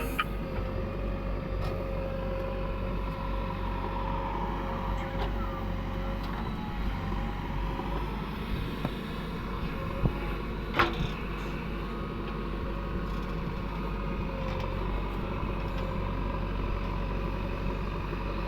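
Heavy diesel machine's engine, a JCB backhoe or tractor, running steadily with a low rumble and a held tone. Two sharp knocks come about ten and eleven seconds in.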